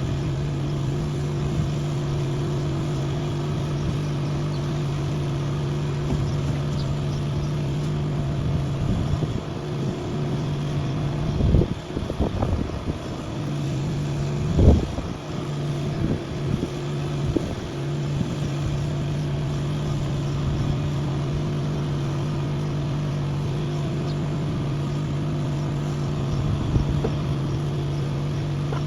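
An engine running steadily with a low, even drone. For a few seconds in the middle it is broken by a cluster of knocks and thumps, the loudest about fifteen seconds in.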